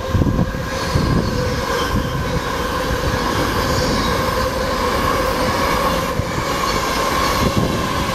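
Virgin Trains Class 390 Pendolino electric train running past along the platform: a steady rumble of wheels on rail with a steady whine over it, and a few low thumps in the first second.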